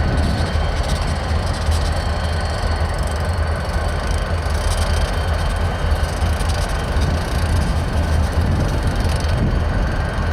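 Freight train rolling, a steady low rumble without pause.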